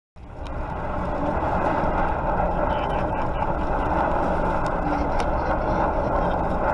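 Steady, loud rushing noise of a motor vehicle under way, starting abruptly just after the beginning.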